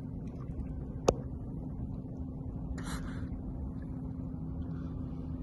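Steady low hum of a boat motor, with a single sharp click about a second in and a short hiss about three seconds in.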